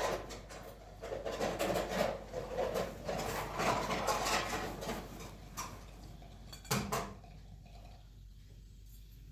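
Clattering and clinking of dishes and utensils, with a single sharper knock about seven seconds in.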